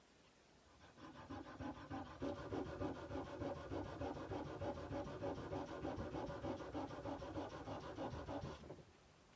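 Sandpaper rubbed by hand along a steel kukri blade in quick back-and-forth strokes, starting about a second in and stopping shortly before the end.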